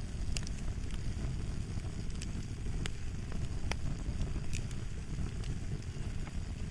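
Fire crackling: a steady low rumble of burning with irregular sharp pops and snaps scattered throughout.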